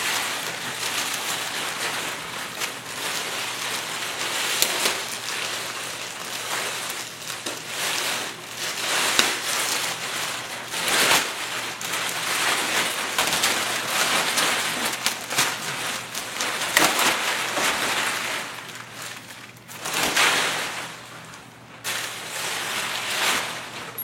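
Plastic wrapping on a new boxed mattress crinkling and rustling as it is handled and pulled, with dense crackles and repeated louder swells.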